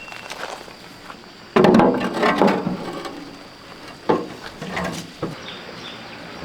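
A sudden loud clatter of knocking objects about one and a half seconds in, dying away over a second, followed by two sharper single knocks.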